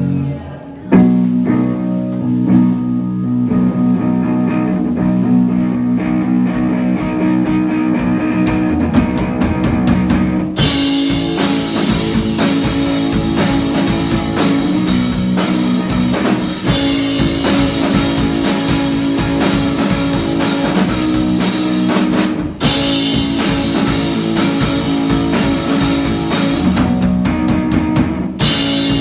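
Live rock band playing: guitar and bass carry the opening, then drums with cymbals come in about ten seconds in and the full band plays on, with brief breaks near the end.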